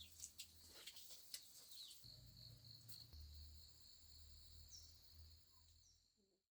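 Near silence: faint outdoor ambience with a thin, steady high-pitched hum, like insects, and a few faint ticks.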